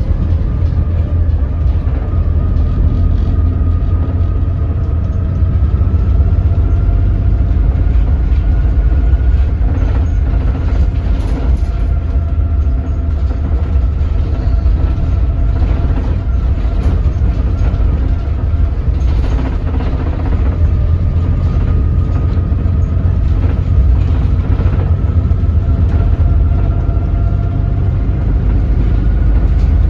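Doosan DL08K diesel engine of a BS106 city bus running at low rpm during slow driving: a heavy, steady low rumble with a faint whine that drifts slowly up and down in pitch.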